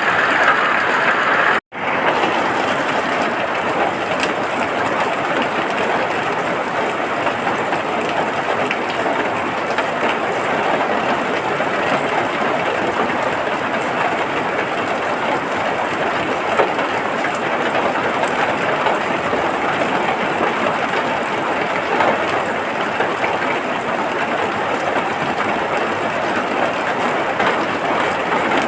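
Steady rain, an even hiss that cuts out for an instant near the start and then resumes.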